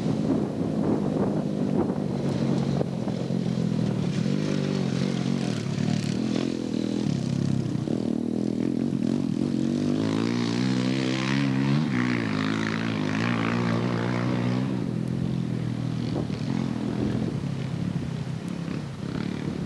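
Dirt bike engines running and revving on a motocross track, the pitch rising and falling with the throttle. There is a harsher, louder stretch in the middle, about ten to fifteen seconds in.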